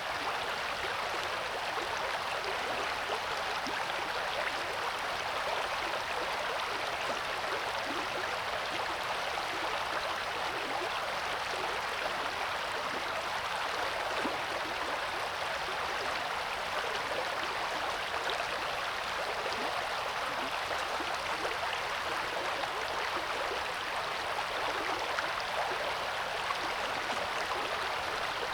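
River water rushing and babbling over rocks, a steady unbroken flow.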